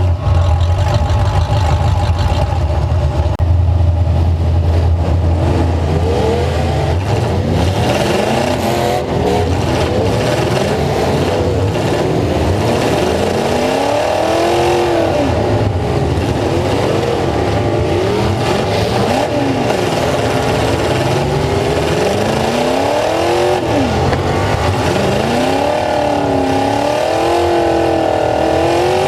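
Full-size truck engine running hard under changing throttle, its pitch rising and falling again and again. A deep steady rumble dominates the first few seconds.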